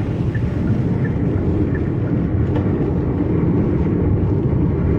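Car driving at speed, heard from inside the cabin: a steady low engine and road rumble.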